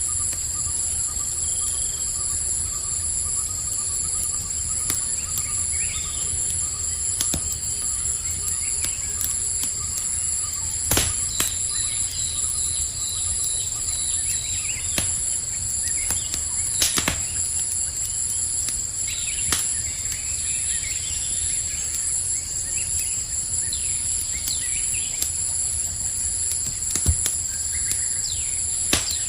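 Campfire crackling with scattered sharp pops over a low steady rumble, set against a continuous high trilling chorus of crickets and a few faint chirps.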